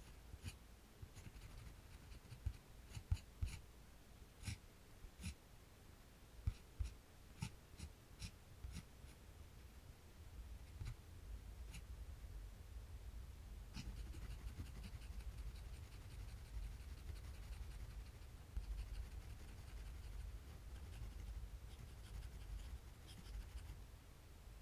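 Drawing on paper: scratchy strokes of a drawing tool, with a dozen or so small sharp taps in the first half, then steadier, continuous scratching.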